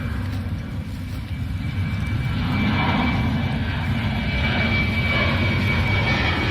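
Airplane's engines at takeoff power: a heavy low rumble with a steady high whine, growing louder about two seconds in.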